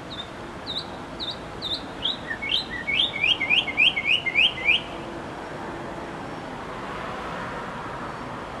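A songbird singing: four clear, hooked notes about two per second, then a quicker run of about ten downslurred notes that stops about halfway through, over a steady background hiss.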